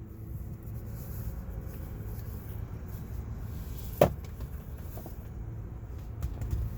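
Steady low rumble of a car cabin, with a single sharp click about four seconds in.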